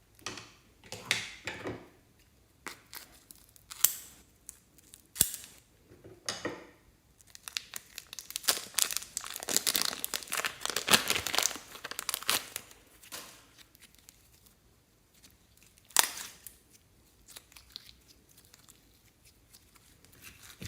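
Slime and plastic being handled: crinkling, tearing and crackling noises in irregular bursts, with a dense run of crackling around the middle and a few sharp snaps.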